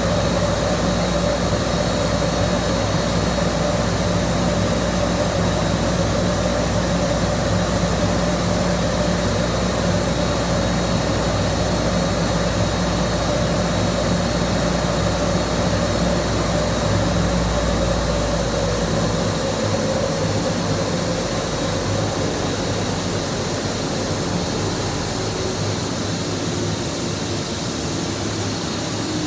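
Steady roar of a boiler being fired, with a humming tone that slowly sinks in pitch; the deepest rumble drops away about two-thirds of the way through.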